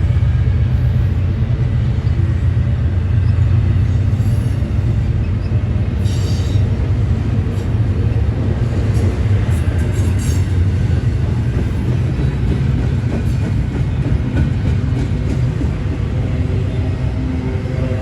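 Freight train of intermodal container railcars rolling past: a steady, loud low rumble of wheels on rail, with a few brief high-pitched wheel squeals or screeches about a third and halfway through.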